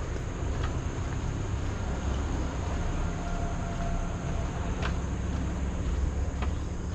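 Footsteps on a nature trail: a few separate steps over a steady low rumble, with a constant thin high hiss throughout.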